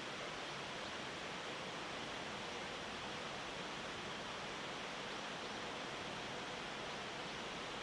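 Steady, even outdoor background hiss of a rural morning, with no distinct bird calls or other events standing out.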